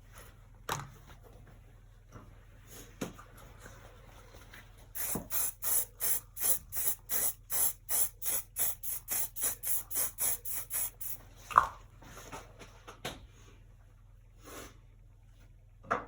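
Paintbrush scrubbing paint back and forth, a steady run of scratchy strokes about three a second for some six seconds. There are a few single knocks and taps around it, the sharpest just after the strokes stop.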